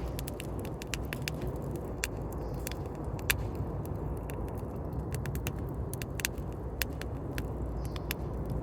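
Wood campfire crackling, with many sharp irregular snaps and pops over a steady low rumble.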